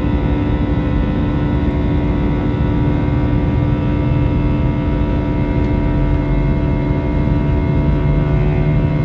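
Airbus A320 jet engines and airflow running steadily, heard inside the passenger cabin, with a low hum that rises slightly in pitch in the second half.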